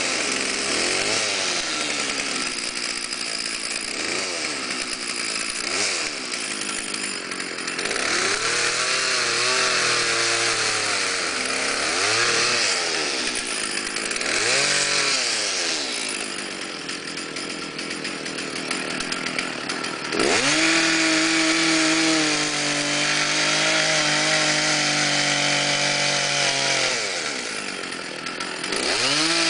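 Chainsaw cutting wood, its two-stroke engine revved up and down over and over, then held at a steady high pitch for several seconds before easing off briefly near the end and picking up again.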